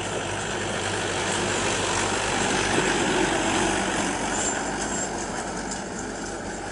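Steady motor-vehicle engine and traffic noise, a dense even rumble and hiss, with a few faint short high chirps about two-thirds of the way through.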